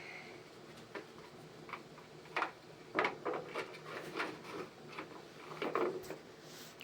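A string of light, irregular knocks and clicks, as of objects being handled and set down.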